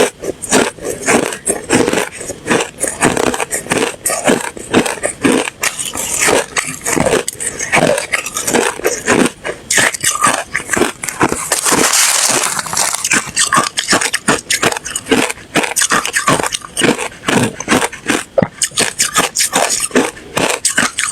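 Ice being bitten and chewed close to the microphone: rapid, irregular crunches, several a second, with a longer gritty crunch about halfway through.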